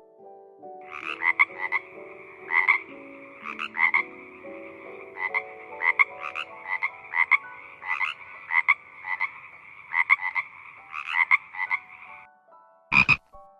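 Frogs croaking: short calls repeating irregularly, a few each second, over a steady chorus, with a soft low melody of notes underneath. The chorus stops about a second before one louder call near the end.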